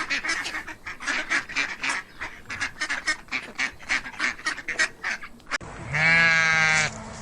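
A flock of farm poultry calling in rapid, overlapping honks and cackles, several a second. About six seconds in the sound cuts to a single loud, quavering bleat lasting about a second.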